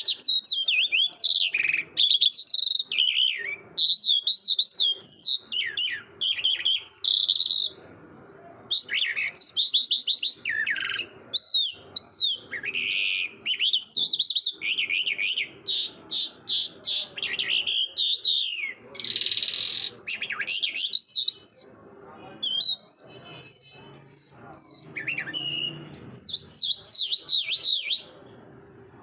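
A songbird singing a varied song of fast, swooping whistled notes and trills in short phrases with brief pauses between them, and a short harsh rasping note about two-thirds of the way through.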